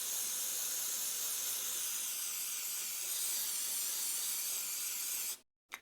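Aerosol cleaner sprayed in one long steady hiss into a hole caked with carbon, stopping abruptly near the end, followed by a few small clicks.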